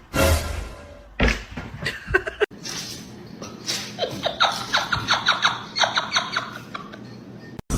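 A person laughing in a quick run of short bursts, about three or four a second, that builds through the middle and dies away.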